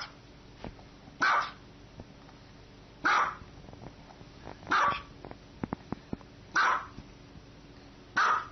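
A dog barking in single, evenly spaced barks, one about every second and three-quarters, six in all.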